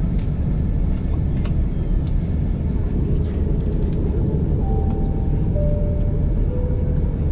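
Steady low rumble of an airliner cabin in flight, engine and airflow noise. In the second half a three-note chime sounds, each note lower than the one before.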